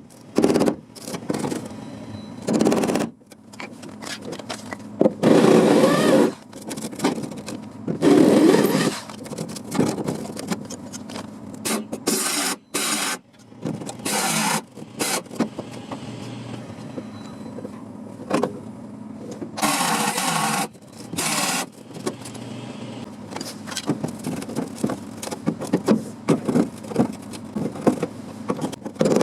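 Sheet-metal bodywork on a car's door-striker panel: repeated scraping or grinding bursts of a second or so each, with short clicks and knocks between them.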